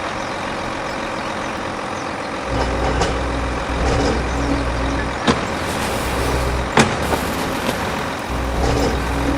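Truck engine running steadily. A deeper low rumble comes in about two and a half seconds in, fades for a moment and returns, and there are a couple of sharp clicks.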